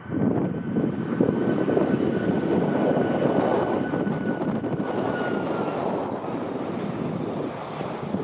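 Jet airliner engines running loud and steady as the aircraft passes, with a thin high whine that drifts slightly down in pitch and fades about six seconds in.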